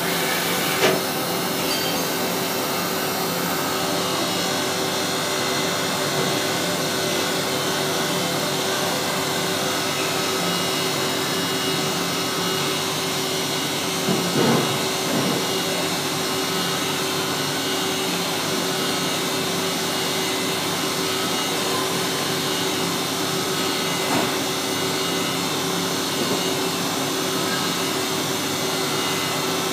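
Samsung MCV50 CNC machining centre milling a circular pocket in mild steel with a half-inch four-flute carbide endmill spinning at 6100 rpm. The cut is steady and high-speed, with a constant hum of fixed tones. A few brief louder knocks come near the start, about halfway and about two-thirds of the way through.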